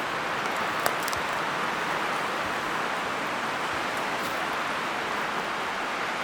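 Steady outdoor rushing noise, even and unbroken, with one small click about a second in.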